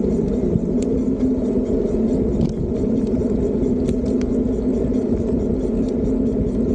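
Steady rumble of riding an electric bike, with road and wind noise on the microphone and a few faint clicks.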